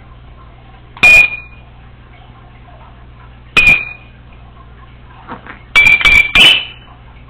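Hard clinks, each with a brief high ring: one about a second in, another about a second and a half later, then a quick run of three near the end.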